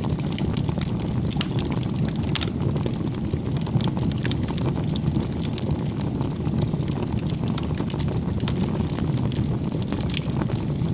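Crackling campfire: a steady low rumble of flames with frequent small sharp pops and snaps of burning wood.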